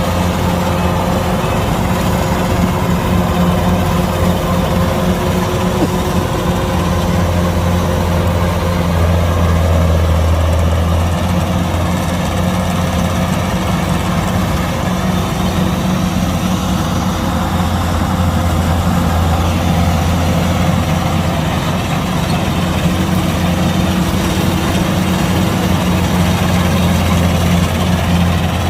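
Kubota DC-105X combine harvester's diesel engine running steadily, a constant low hum with no change in speed.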